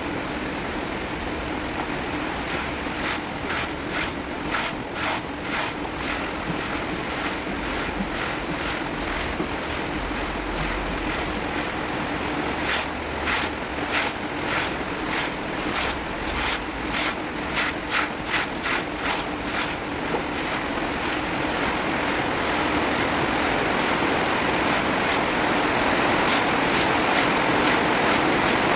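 Storm noise: a steady rush of wind and rain, broken twice by runs of sharp, regular beats, about two or three a second, and growing louder toward the end.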